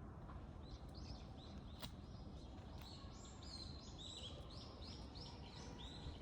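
A bird singing faintly: a quick series of short high chirps that gets busier partway through, over steady low background noise.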